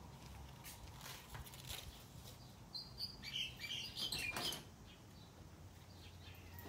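Faint bird chirping, a quick run of short high chirps about three seconds in, over a low steady hum and a few light clicks.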